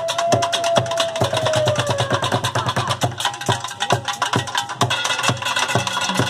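Street percussion ensemble playing drums and recycled objects: a fast, even rhythm of sharp strikes over recurring low drum beats, with a held tone that sinks slightly in pitch during the first two seconds.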